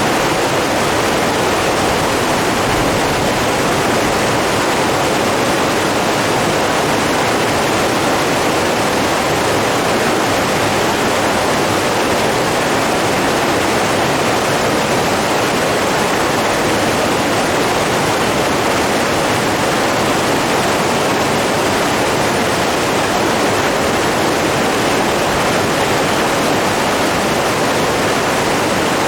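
Running water rushing steadily, an even noise that does not change.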